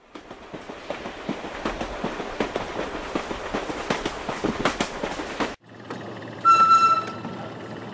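Train sound effect: a train running on the track, a rumble with many irregular clicks, for about five and a half seconds. After a short break comes a steady hiss with a loud high whistle tone about six and a half seconds in.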